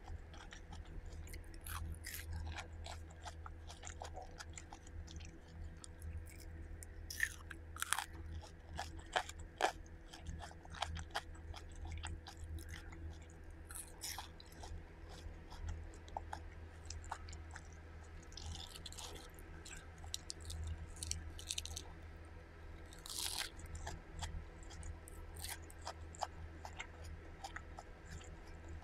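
Close-miked chewing and crunching of crispy fried food (French fries and onion rings): irregular wet chews broken by sharp crackly crunches, with a few louder bites around a third of the way in and again past the three-quarter mark. A steady low hum runs underneath.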